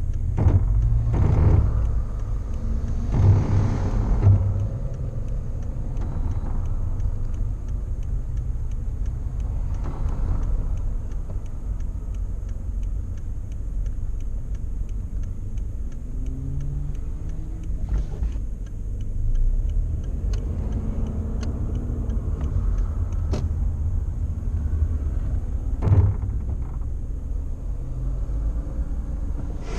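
A car on the move with a steady low rumble, and a few short knocks along the way.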